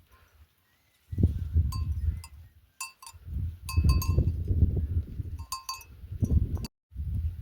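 Small livestock bells on a flock of sheep clinking irregularly, several quick rings at a time, over loud, choppy low rumbling.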